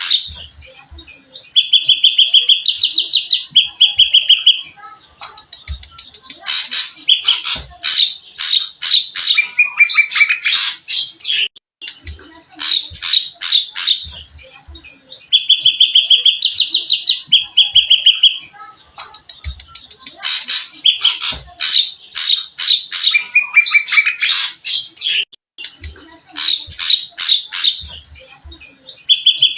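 A recorded songbird masteran mix: bursts of rapid, harsh chattering notes alternating with high trilled runs, the sequence repeating about every 14 seconds.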